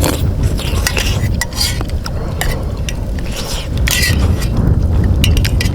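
A spoon clinking and scraping against a camping pot or bowl in a series of short clicks while someone eats soup, over a steady low rumble of wind buffeting the microphone.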